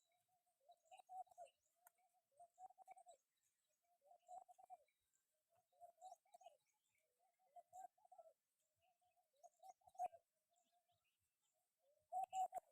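Faint bird cooing, a short dove-like phrase repeated about every one and a half seconds.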